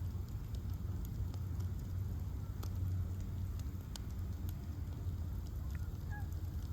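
Bonfire of ash logs burning, with a steady low rumble under scattered sharp crackles and pops, the loudest pops about two and a half and four seconds in.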